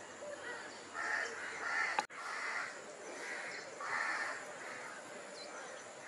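A bird giving about five harsh calls in a row, roughly one every 0.7 seconds, with a single sharp click about two seconds in.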